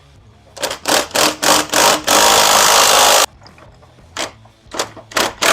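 A power tool run in short trigger bursts, about five quick pulls, then one steady run of about a second, then several more quick bursts near the end, typical of loosening bolts.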